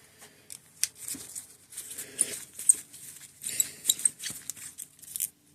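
Hydraulic disc brake parts being handled at the bench: a string of irregular small clicks, light metallic ticks and scraping, which stops abruptly near the end.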